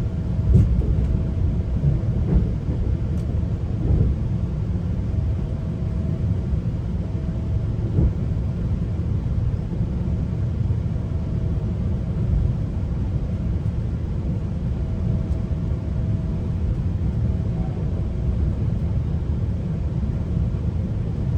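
Low, steady rumble of a GO Transit bilevel passenger coach rolling along the track, heard from on board, with an occasional knock of the wheels over rail joints and a faint whine that comes and goes.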